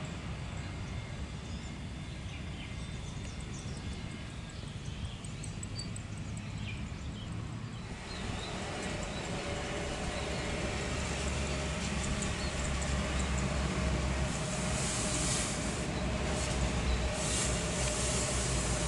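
Jet airliner engines, an Airbus A330's, running as a low rumble that grows fuller and louder from about eight seconds in, with a steady whine joining it.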